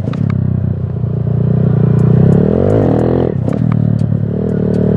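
Motorcycle engine running while riding, with a quick rev that rises and falls about two and a half seconds in, as the clutch is popped and the throttle opened to lift the front wheel. Scattered light clicks and clatter are heard over it.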